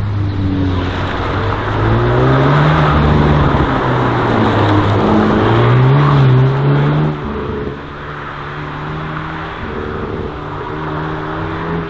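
Race car engine revving up and dropping back again and again as the car accelerates and lifts off through the slalom course. It is loudest for the first seven seconds, then falls quieter and runs more steadily.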